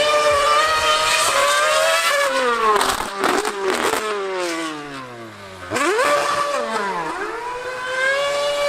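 Formula One car's engine at very high revs, dropping in pitch in quick steps from about two seconds in as it is shifted down, then rising sharply just before six seconds in as it accelerates hard again.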